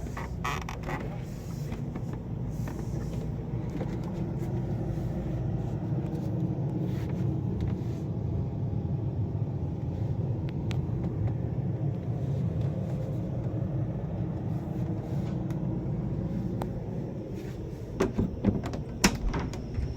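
A steady low rumble with a faint hum from running machinery aboard a motor yacht. Several sharp knocks, like a door or cupboard being handled, come near the end.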